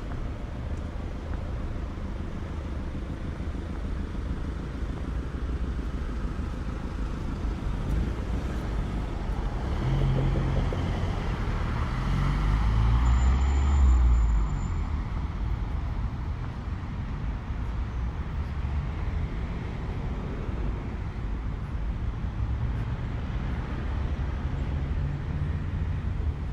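Street traffic rumbling steadily, with one motor vehicle passing close and swelling to its loudest about halfway through before fading away.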